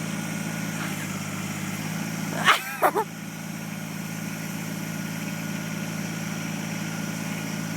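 An engine idling steadily, with a dog barking three times in quick succession about two and a half seconds in; the barks are the loudest sound.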